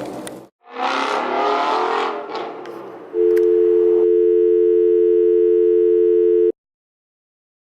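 A steady telephone dial tone, two pitches held together for about three seconds, that cuts off abruptly. Before it comes a shorter stretch of a rougher, shifting sound.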